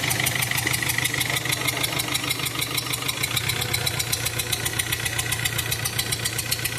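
VW Vento engine idling with a rapid, even knocking, about eight knocks a second over a steady hum. The mechanic puts the heavy knocking down to very low engine oil from a leak.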